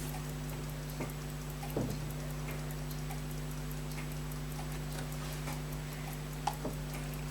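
Elgin pocket watch ticking fast and evenly, about five ticks a second, over a steady low hum, with a few soft knocks.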